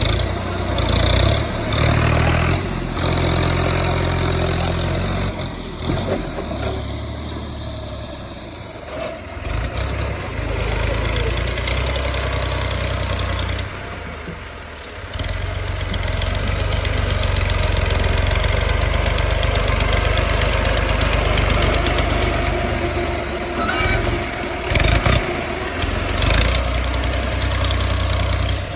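Farm tractor's diesel engine running and revving, its pitch and loudness rising and falling several times as it works under load, with voices at times.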